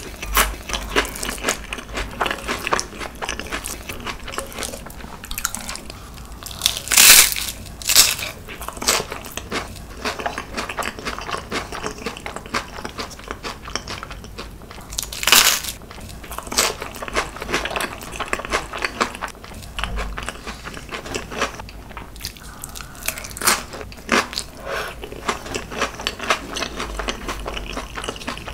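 Close-miked eating with crunchy bites into fried gim bugak (seaweed chips) topped with spicy marinated crab. A few loud crunches, about a quarter of the way in and again near the middle, stand out over steady crackly chewing.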